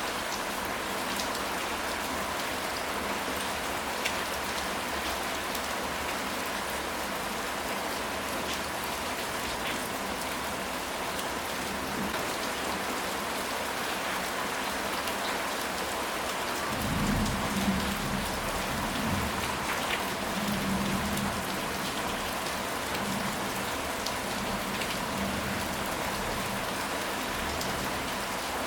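Steady rain falling, with individual drops ticking through the hiss. A low rumble rises for a few seconds about two-thirds of the way through, as of distant thunder.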